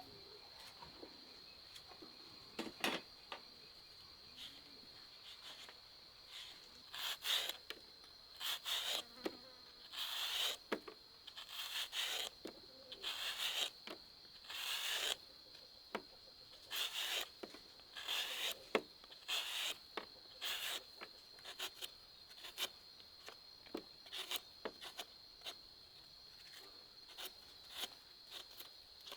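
A steady high-pitched insect drone, like crickets or cicadas, runs throughout. Over it comes a series of short rasping, scraping strokes, about one a second, loudest and closest together in the middle of the stretch.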